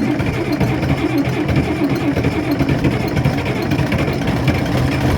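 International Harvester 1486 tractor's six-cylinder diesel engine running steadily just after catching on a cold start in winter.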